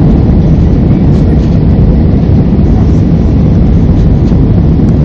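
Jet airliner's engines and rushing air heard from inside the passenger cabin during take-off: a steady, loud, low rumble.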